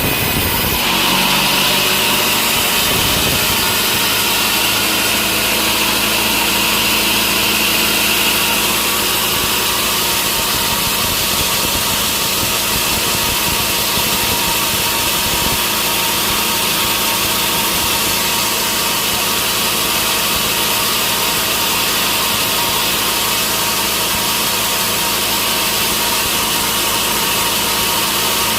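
Sawmill saw running and cutting through a log, a loud steady machine noise. It is harsher and higher for the first several seconds, then settles to an even drone.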